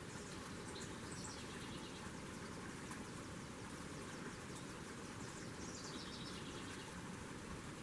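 Faint steady outdoor background noise with small birds chirping softly twice, short high trills near the start and again about five seconds in.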